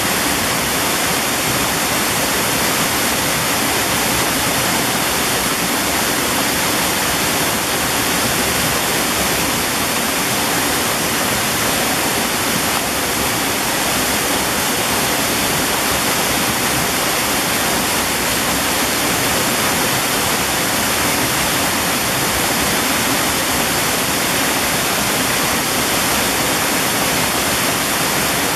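Mountain valley stream, water rushing in a steady, unbroken wash of sound.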